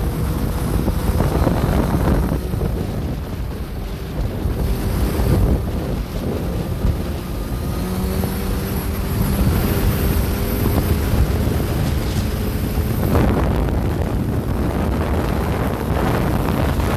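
Motorcycle at highway speed: wind rushing loudly over the microphone with the engine droning underneath, a faint steady engine tone showing through for a few seconds midway.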